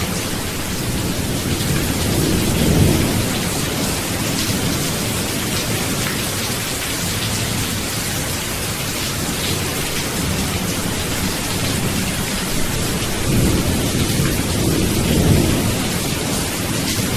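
Steady heavy rain hissing, with low rumbles of thunder swelling about two seconds in and again near the end.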